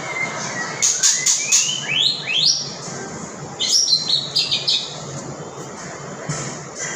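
A songbird singing. A quick run of sharp chips comes about a second in, then several rising whistled slurs, then a burst of fast chattering notes around four seconds in.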